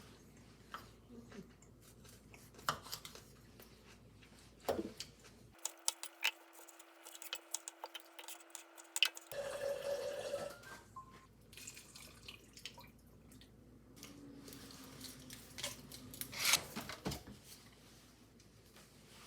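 Irregular small clicks, taps and clinks of objects being handled, with a short clattering patch about halfway through and another near the end.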